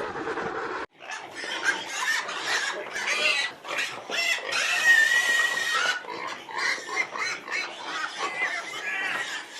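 Pigs squealing, many cries overlapping in a continuous chorus, starting just under a second in after another sound cuts off abruptly.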